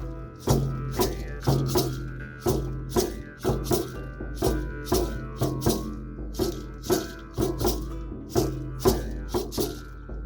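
Instrumental passage of a live acoustic Nordic folk song: a rattle shaken in a steady beat, about two strokes a second, over a held low note and other instruments.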